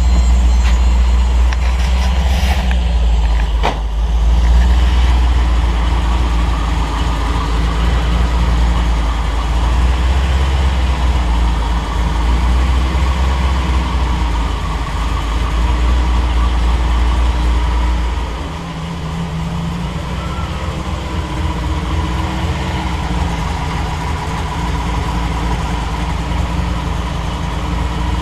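Triumph TR8's V8 idling steadily on a cold start, its idle held by Megasquirt 3 Pro closed-loop idle control during warm-up enrichment. About 18 seconds in the idle note drops and gets quieter as the idle settles down.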